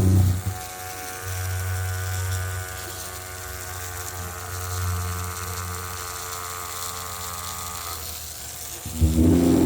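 A small electric toy motor running with a steady hum, stopping about eight seconds in. A louder motor sound starts about nine seconds in.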